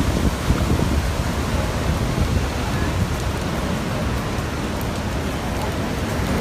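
Typhoon wind and rain: a steady rushing noise, heavy in the low end.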